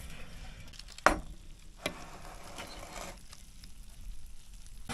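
Two sharp knocks of kitchenware being handled, about a second in and again just under a second later, over a faint background hiss.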